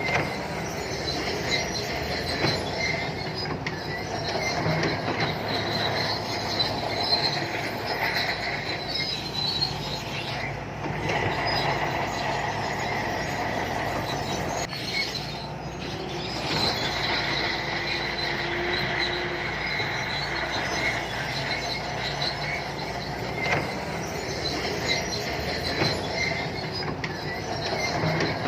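Shantui crawler bulldozer working: diesel engine running steadily under the high squeal and clatter of its steel tracks, with scattered clanks.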